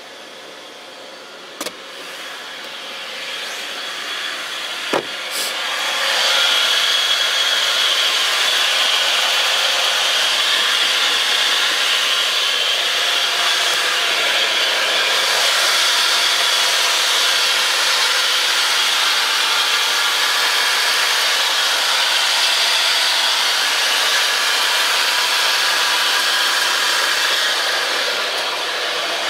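Mitsubishi Chariot (N43W) drivetrain running, its noise building over the first six seconds to a steady whirring hiss with a high squeal on top, plus two clicks before it settles. This is the swishing, squealing abnormal noise from around the transmission. It is still there with the transfer case removed, so the transfer is not its cause.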